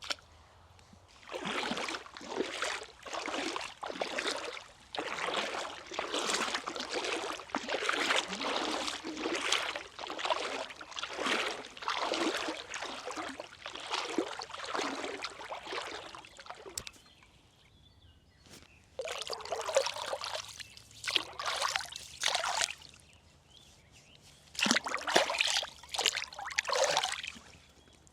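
Water splashing and sloshing in irregular bursts, pausing briefly twice.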